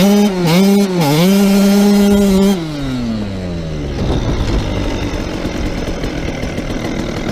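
KTM SX85's 85cc two-stroke single-cylinder engine revved in quick blips, then held at high revs for about two seconds before the revs fall away. After that it runs on at a lower, rougher note.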